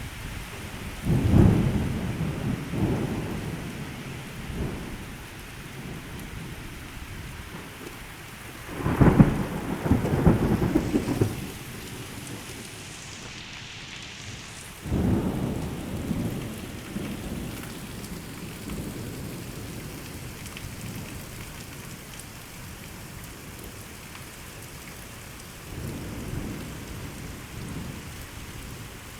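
Heavy rain pouring steadily, with thunder rumbling four times over it; the loudest roll comes about a third of the way through.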